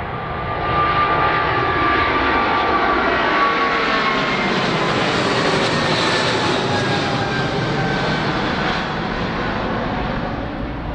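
Airliner engines passing close by, swelling from about a second in to a peak around the middle and then fading, with high whining tones that slowly fall in pitch as it goes past.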